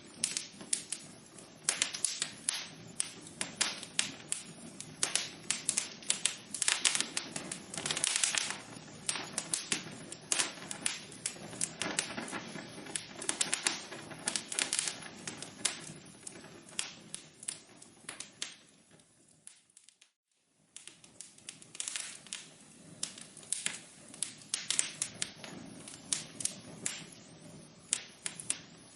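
Wood fire crackling in a fireplace: a dense run of sharp pops and snaps over a low rushing hiss. About two-thirds through it dies away to a brief silence, then starts again.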